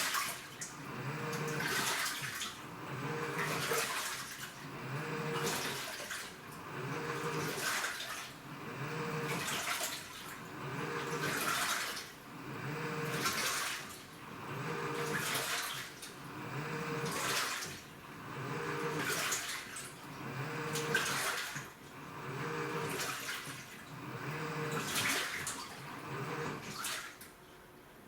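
Washing machine agitating in the wash cycle: the motor hums as it drives the load one way and then the other, and water sloshs with each stroke, about one stroke every one and a half seconds. The agitation stops just before the end.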